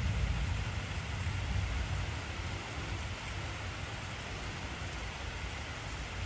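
Steady heavy rain, with a low thunder rumble fading away over the first couple of seconds.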